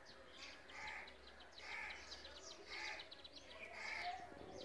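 Small birds chirping faintly in the background, a cluster of quick high chirps about once a second.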